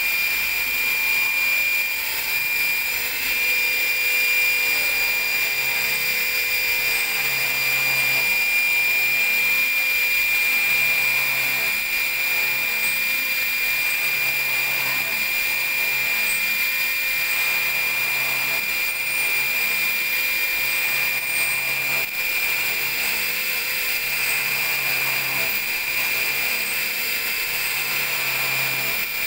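CNC vertical machining center milling a part: a steady high-pitched spindle whine over the hiss of cutting, with a low hum that comes and goes every few seconds.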